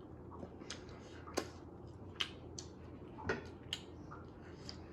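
Someone eating close to the microphone: a handful of short, sharp crunches and mouth clicks at irregular intervals over a faint steady hum.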